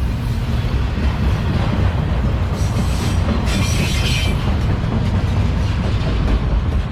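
Freight cars of a CSX manifest train rolling past close by, a steady heavy rumble of steel wheels on the rails with clickety-clack, and a brief higher screech about three and a half seconds in.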